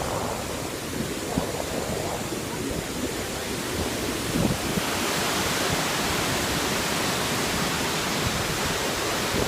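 Waterfall rushing: a steady hiss of falling water that grows louder and brighter about five seconds in.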